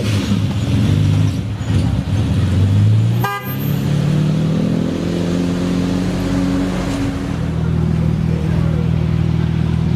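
Sports car engine and exhaust running loud, building up over the first few seconds, with a short sharp pop about three and a half seconds in, then settling into a steady drone with a slight rise in pitch.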